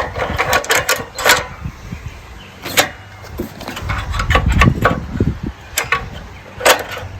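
Sharp metallic clicks and clinks of wrenches and loose bolts, about five in all, as the minibike is being taken apart. About four seconds in there is a low rumble lasting a second or so.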